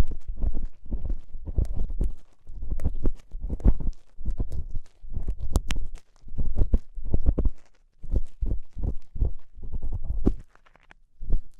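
ASMR ear-cleaning sounds on a binaural microphone: repeated scraping and rubbing strokes against the mic's ear, about two a second, deep and muffled with a faint crackle.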